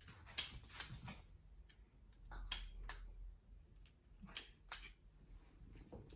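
Faint, irregular clicks and taps, about seven over a few seconds, as a small object is handled or tapped.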